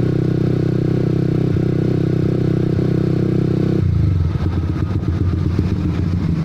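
Honda CB150R single-cylinder engine through an aftermarket Pro Liner TR-1 long carbon-canister exhaust, running steadily while riding; about four seconds in the tone drops and turns choppy, as when the throttle is rolled off.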